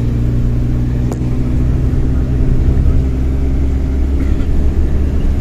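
Engine running with a steady low drone and hum, its pitch shifting slightly about two seconds in.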